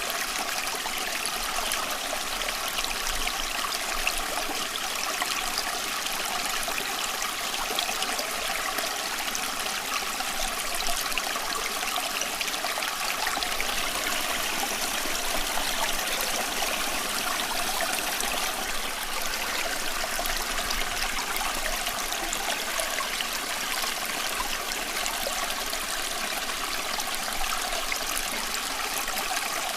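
Running water flowing steadily, an even continuous rush with no breaks or changes.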